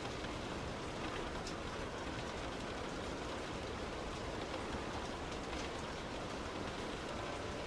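Heavy rain on a moving car with the hiss of tyres on a wet road: a steady noise with a few faint ticks of single drops.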